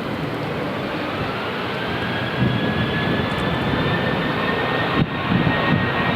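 Jet airliner engine noise, a dense rush with a thin whine that rises in pitch over the first few seconds and then holds steady.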